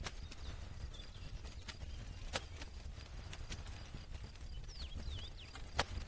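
Wood fire crackling: irregular sharp pops and snaps, two louder ones about two seconds in and near the end, over a steady low rumble of the burning fire. A few faint high chirps come in near the end.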